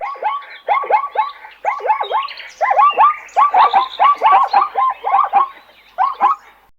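Many short animal calls, each a quick falling note, coming in close runs and sometimes overlapping as from several animals at once. They stop shortly before the end.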